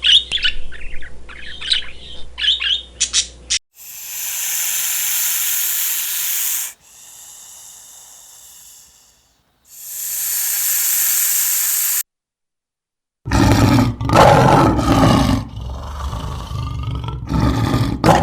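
Bird chirping in quick sharp calls, then two long loud hisses a few seconds apart. After a brief silence comes a loud, rough animal grunting.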